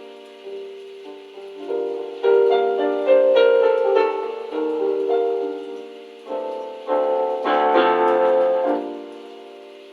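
Solo piano improvisation: chords and single notes struck and left to ring and fade. Louder clusters of notes come every second or so, and it dies down near the end.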